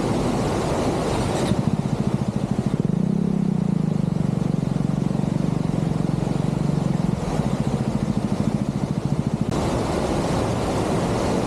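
Motorcycle engine running with a fast, even firing pulse, under a wide rushing noise of wind. From about a second and a half in to near the end, the rushing drops away and the low engine beat stands out more plainly.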